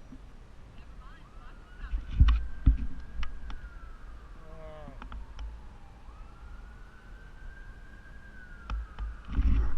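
A wailing emergency-vehicle siren that slowly rises, holds, and falls, going through about two cycles. A few low thumps, likely wind or bumps on the microphone, come about two seconds in and again near the end.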